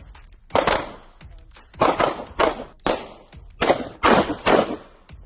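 Firearm shots at an outdoor range: about six sharp gunshots, irregularly spaced over some four seconds, each with a short ringing tail.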